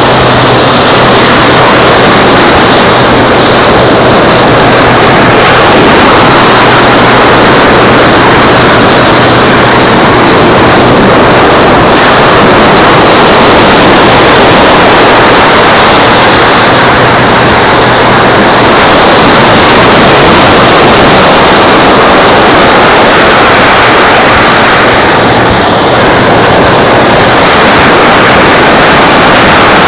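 Loud, steady rushing of surf and wind on the shore, with a faint low hum in the first half that then fades.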